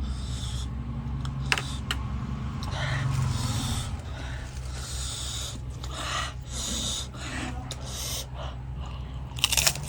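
Close-up eating sounds from a person eating: breaths through the nose and mouth, wet chewing and slurping noises in short bursts, and a few sharp clicks, several close together near the end, over a steady low hum.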